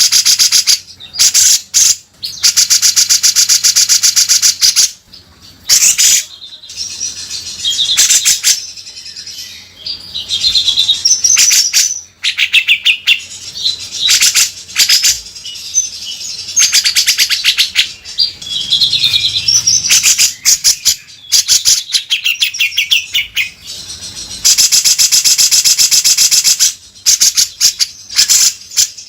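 Grey-cheeked bulbul (cucak jenggot) singing with harsh, rasping chatter: long loud runs of rapid rattling strokes, several seconds each, alternating with shorter warbled phrases.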